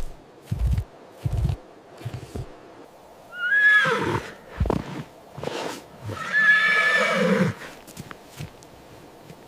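Horse neighing: two whinnies, the first about three and a half seconds in and a longer one about six seconds in, with a few short low thuds before them.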